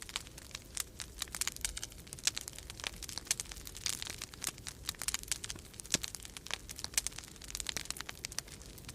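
Wood fire crackling in a fireplace, with dense, irregular snaps and pops, over a steady low rumble of winter storm wind.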